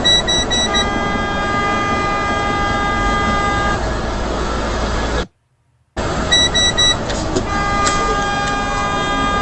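A vehicle horn blown and held for about three seconds over steady road noise, just after a quick run of short high beeps. The audio cuts to silence for under a second, then the same beeps and long horn blast play again.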